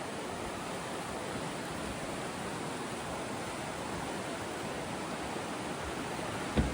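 Rushing white water of the river rapids, a steady even roar. A short low thump sounds near the end.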